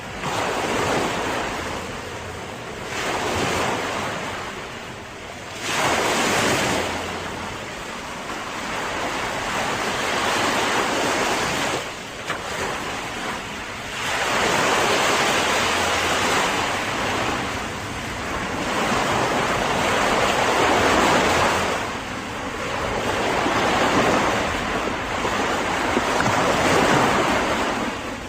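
Sea surf: waves breaking and washing in, swelling and easing every few seconds.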